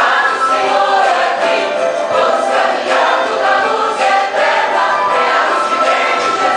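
Choir singing a Christian praise song in several voices.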